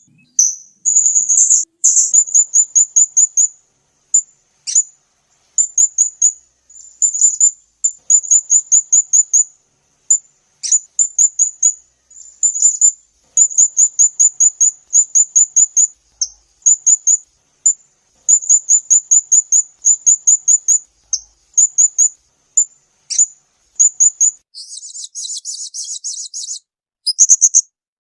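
A small songbird sings quick strings of sharp, high-pitched repeated notes in rapid-fire bursts with short pauses between them. Near the end it gives a quieter buzzing trill before the sharp strings resume.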